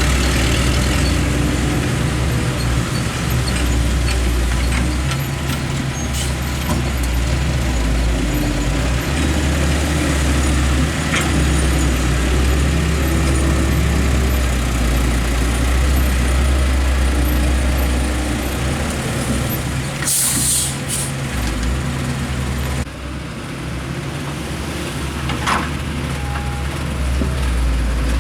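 Heavy diesel engines of an excavator and dump truck running steadily at work, with a short, loud hiss of released air about twenty seconds in.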